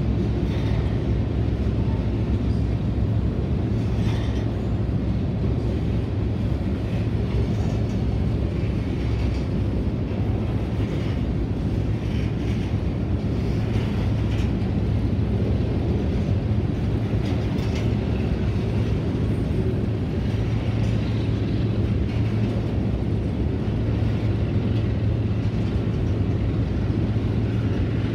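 Freight train of covered hopper cars rolling past: a steady low rumble of steel wheels on the rails, with a constant hum and scattered brief clanks and squeaks.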